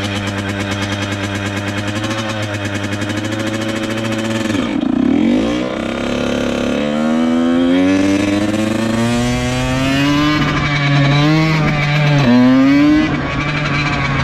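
Dirt bike engine idling steadily, then from about five seconds in revving up in several rising pitch climbs that drop back between each one, the pattern of a bike pulling away and shifting up through the gears.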